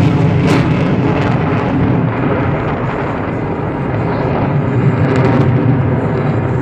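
Jet engine noise of an F-22 Raptor in flight, from its twin Pratt & Whitney F119 turbofans: a loud, continuous low rumble that swells and eases a little.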